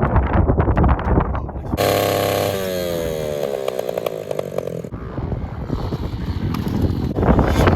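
Small pit-bike engine revving high, then falling steadily in pitch for a couple of seconds as it winds down. Rough wind buffeting on the microphone comes before and after, louder near the end.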